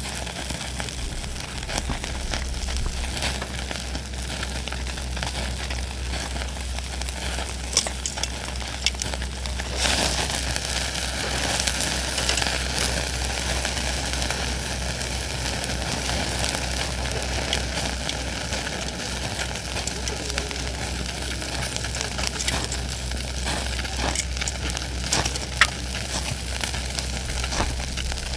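Food sizzling on hot cookware over the heat, with scattered crackles and pops. The sizzle gets stronger about ten seconds in.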